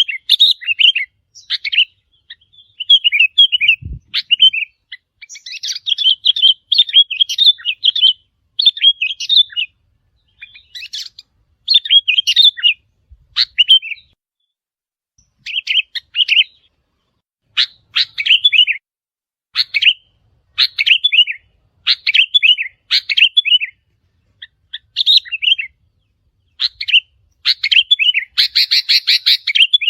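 Sooty-headed bulbuls singing: short chirping phrases repeated every second or so, with a denser, harsher chattering burst near the end.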